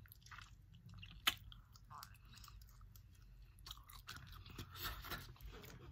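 A person chewing boiled seafood close to the microphone, with soft crunches and scattered small clicks as a boiled shrimp's shell is handled and peeled. There is one sharper click a little over a second in.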